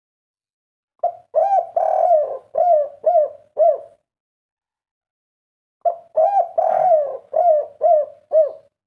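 Spotted dove cooing, the local 'kuk 3' type: two phrases, each with two short opening notes, one long drawn note, then three quick short 'kuk' notes.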